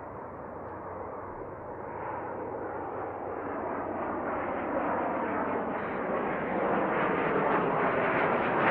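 Cessna Citation CJ3 business jet's twin Williams FJ44 turbofans, a rushing jet noise growing steadily louder as the aircraft approaches. A faint high whine comes in over the last few seconds.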